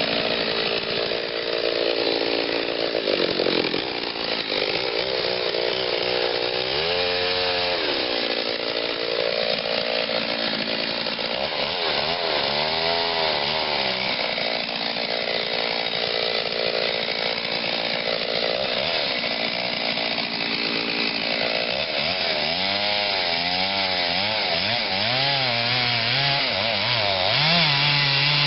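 Stihl 039 chainsaw with a modified muffler and a 28-inch bar, cutting into oak under load. Its engine pitch sags and recovers over and over as the chain bites, then holds a higher, steadier note near the end.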